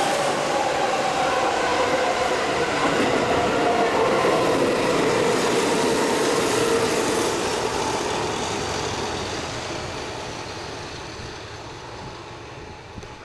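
Keihan Main Line limited express train passing through a station at speed. Rushing running noise with a faint whine that drops slightly in pitch, loud for about eight seconds, then fading steadily as the train moves away.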